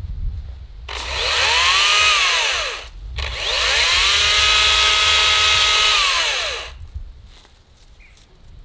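Makita DUC254Z 18-volt brushless cordless chainsaw triggered twice while trimming thin branches off a tree. Each time the motor and chain whine up to speed and wind back down; the first run is short, the second is held for about three seconds.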